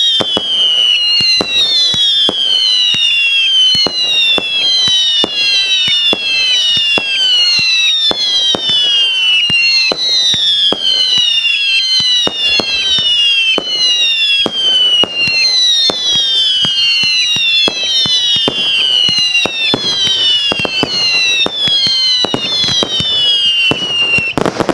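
A firework cake firing a rapid run of whistling shots, about two a second. Each is a falling whistle, and they overlap one another, with sharp cracks and pops of the shots and breaks in between.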